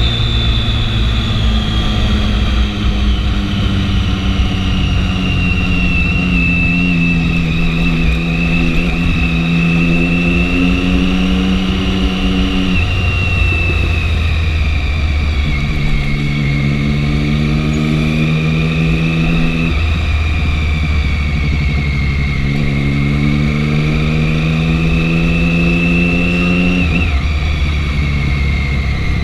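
Triumph 675 three-cylinder motorcycle engine on the move, its pitch climbing slowly through each gear and dropping at a shift, three times. A steady high whine runs above it.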